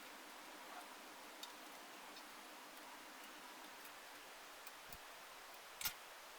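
Near silence: a faint steady hiss of room tone with a few light clicks, one sharper click near the end.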